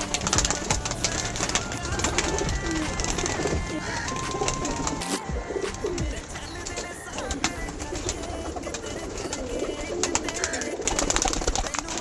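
Domestic pigeons cooing, with many sharp clicks scattered through the sound.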